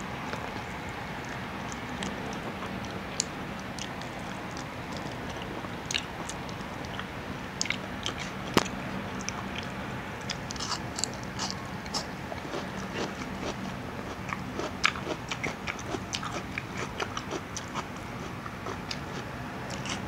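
Eating sounds: pieces of crispy fried food bitten and chewed, a run of small crunches and mouth clicks that grows busier about halfway through.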